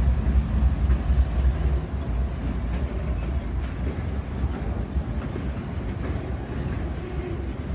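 Diesel freight locomotive running with a deep, steady engine rumble, easing slightly after about two seconds.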